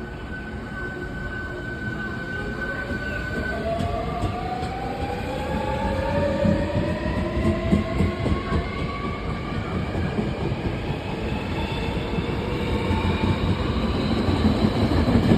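Hankyu 1300 series electric train pulling away from a station. Its inverter-driven traction motors give a whine of several tones rising steadily in pitch as it picks up speed, over a rumble of wheels on rail that grows louder as it passes.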